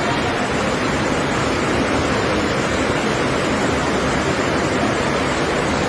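Floodwater rushing past in a steady, even torrent.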